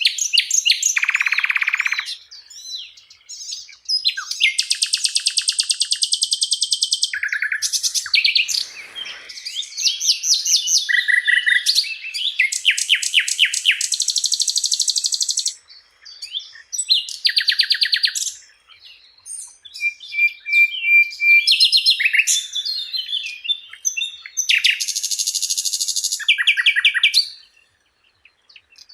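Sikatan londo flycatcher singing a long, varied song of rapid chattering trills, buzzy rattles and short whistled phrases, broken by brief pauses three times.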